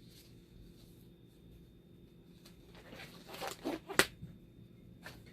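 A few short handling clicks and knocks from work on the opened dialysis machine, the sharpest one about four seconds in, over a faint steady hum.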